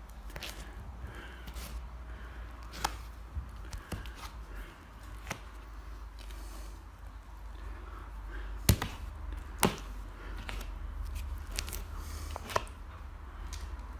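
Plastering trowel knocking and scraping as plaster is pushed into a ceiling crack, making scattered clicks and taps with two sharper knocks near the middle.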